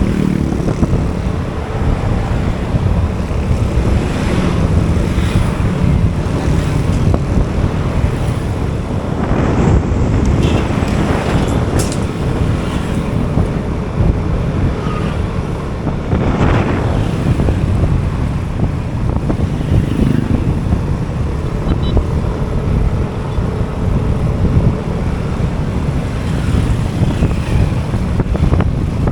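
Road noise from a moving motorbike: wind buffeting the microphone over the bike's running engine, with other traffic swelling past a few times.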